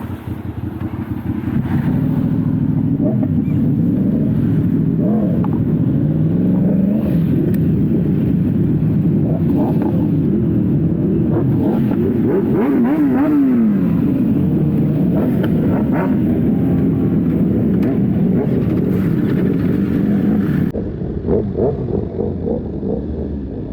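Motorcycle engine heard on board while riding, its pitch rising and falling over and over as it accelerates and shifts through the gears. The sound drops and dulls suddenly near the end.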